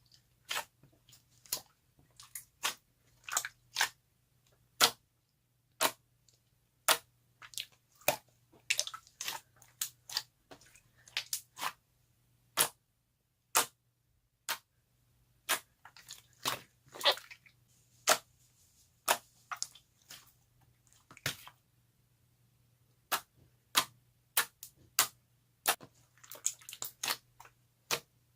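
Clear slime being pressed and poked by hand, making sharp clicking pops at irregular intervals, about one or two a second, with short crackly clusters of smaller pops.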